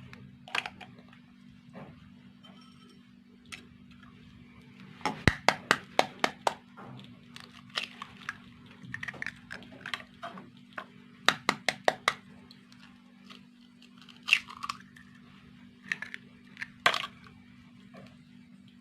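Sharp clinks and knocks of dishes and utensils being handled, in several quick clusters, over a steady low hum.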